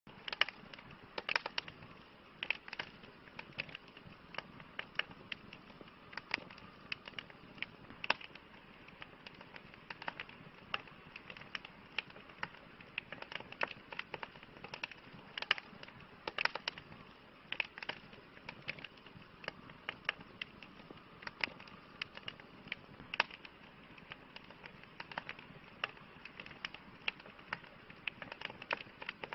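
Wood campfire crackling: irregular sharp pops and snaps, several a second at times, over a steady low hiss of burning.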